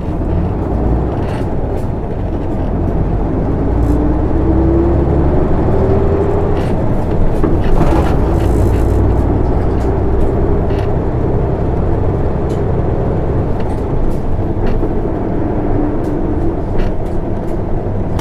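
Isuzu Erga city bus (PKG-LV234N2) heard from inside the cabin, pulling away and accelerating: its diesel engine rumbles under a whine that rises in pitch, then settles into steady running. There is a brief burst of hissing noise about eight seconds in.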